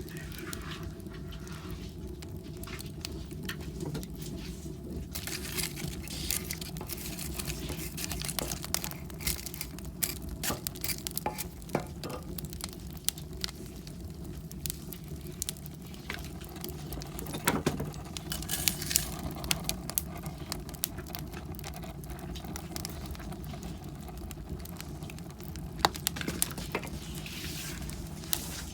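Wood fire burning in a fireplace, a steady low rumble with scattered sharp crackles and pops from the burning logs. A pet's paws patter lightly as it moves about.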